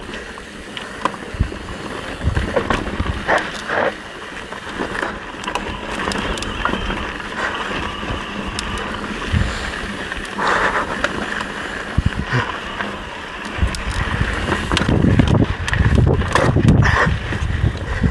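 Mountain bike being ridden over a rocky trail: tyre noise on rock with scattered clicks and rattles from the bike, and heavier low rumbling near the end.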